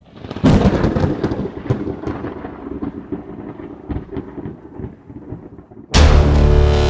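A thunderclap about half a second in, with a crackling rumble that fades away over several seconds. A loud, sustained musical chord comes in near the end.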